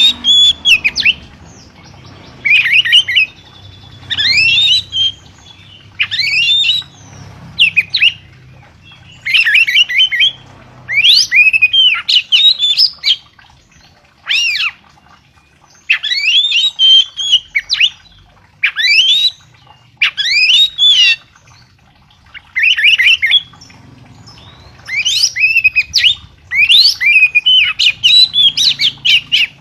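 A songbird singing loud, short phrases of sharp whistled notes that swoop up and down, a phrase about every one to two seconds with brief pauses between.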